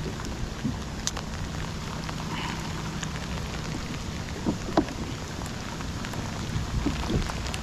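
Steady rain falling, an even hiss of drops on the water and the kayak, with a few sharper drop taps here and there.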